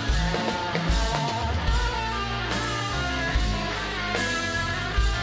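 Live rock band playing an instrumental passage between sung lines: electric guitars over bass, with regular drum kit hits.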